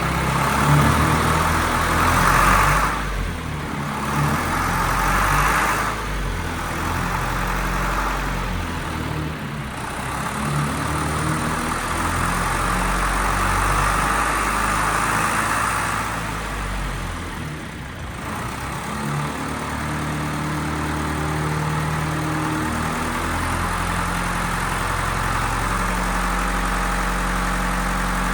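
John Deere 6068T turbo diesel engine running. Its sound swells and drops several times in the first twenty seconds, then settles to a steady idle.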